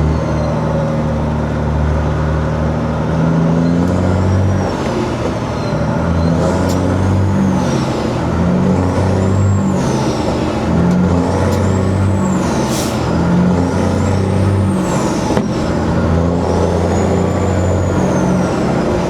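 Peterbilt 379 semi truck's diesel engine running at low speed, its note shifting up and down. A high sound that rises and falls repeats every couple of seconds.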